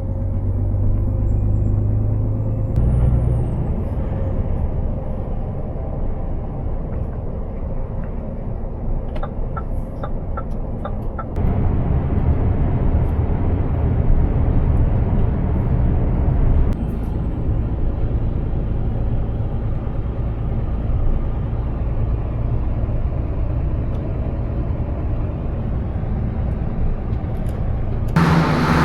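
Heavy truck (Scania R500) engine and road noise, a steady low rumble that changes abruptly a few times. A short run of evenly spaced clicks comes about ten seconds in.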